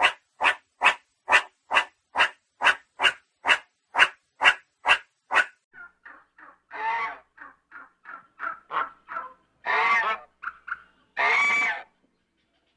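A dog barking steadily, about two barks a second, for about five seconds. It then gives way to geese honking, with irregular short calls and two long, loud honks near the end.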